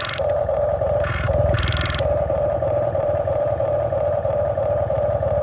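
Electric drive motors and gearboxes of a Huina RC excavator whirring steadily as it works, with a short higher whir about one and a half seconds in.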